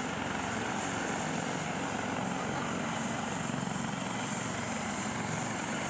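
Helicopter engine and rotor running steadily: a constant, dense noise with a faint high whine on top.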